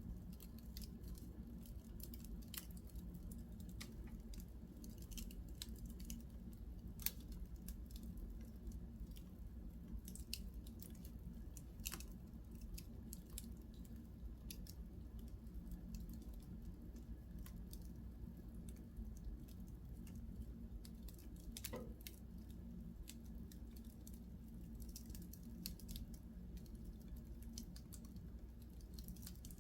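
Wood fire in a fireplace crackling, with irregular snaps and a few louder pops over a steady low rumble.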